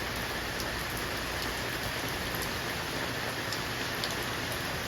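Steady rain falling, an even hiss with scattered drop ticks, rain pattering on houseplant leaves set out to be watered.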